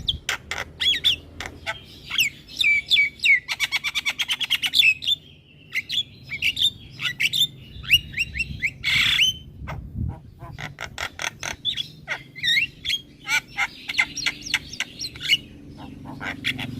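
Javan myna in full song: a fast jumble of chattering clicks and whistled notes, with a quick rattle of clicks about four seconds in and a harsh squawk about nine seconds in.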